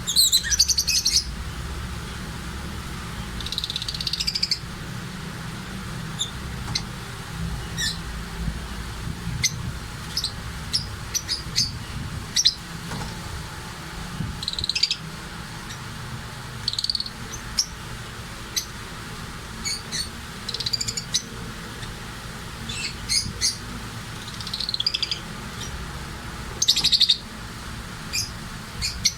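Pet birds chirping: short, high calls at irregular intervals, with a few longer, buzzier bursts of calling, over a steady low rumble.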